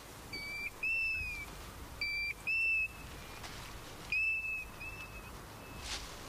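A bird giving clear whistled calls in three pairs of short notes, the second note of each pair slightly arched, with a couple of fainter notes near the end.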